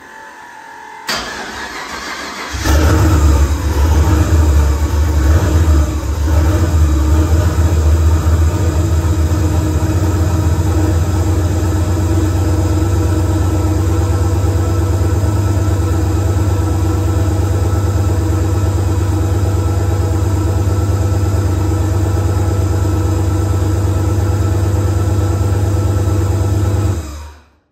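Turbocharged 4.8 L LS V8 being started: the starter cranks for about a second and a half, the engine catches, runs unevenly for a few seconds, then settles into a steady, loud idle until it is shut off abruptly near the end. It is a first start on fresh spark plugs, with a cam that sounds big in the small 4.8.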